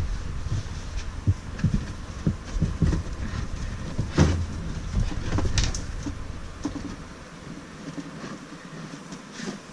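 Irregular knocks and clicks from handling wooden shims and the air-conditioner unit while setting it at a tilt, over a low rumble that drops away after about seven seconds.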